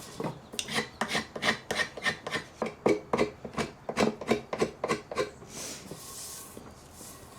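Fast back-and-forth strokes of hand abrasion on a wooden tool handle, about four strokes a second, stopping about five seconds in; a soft hiss follows.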